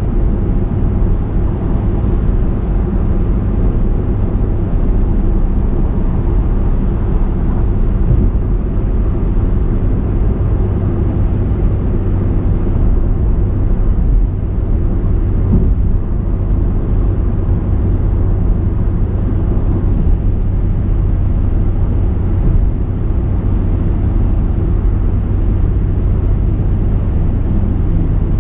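A car driving at steady speed: a continuous low rumble of tyre and engine noise without sudden events.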